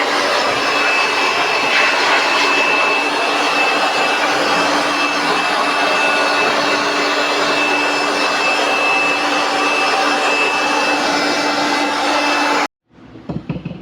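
A power tool's motor running steadily: a continuous hissing drone with a steady whine over it, cutting off suddenly near the end.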